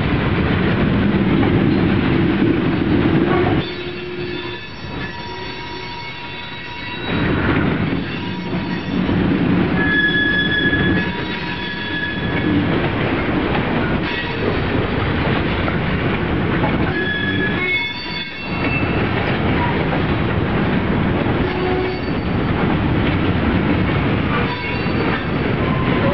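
Freight train cars rolling past with a steady rumble and clatter, the wheels squealing in thin, high tones that come and go. It eases off for a few seconds about four seconds in.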